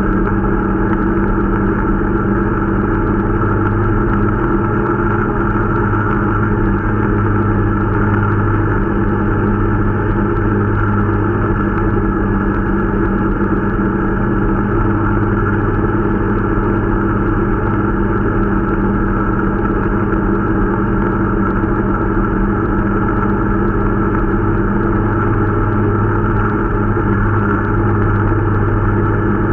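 Irbis Dingo T125 snowmobile's 125 cc four-stroke single-cylinder engine running at a steady, unchanging pitch while being run in.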